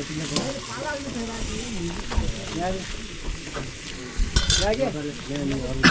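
Food frying in a pan, a steady sizzle, with a few sharp clinks or scrapes of a utensil about four seconds in.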